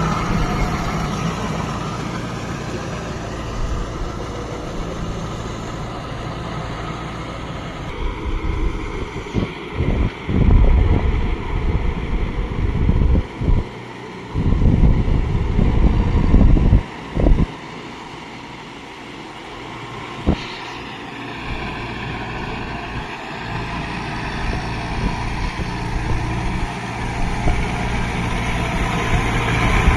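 Kubota MU5502 4WD tractor's diesel engine running steadily as it works through deep mud. Loud, irregular low rumbles come and go through the middle, with a single sharp click.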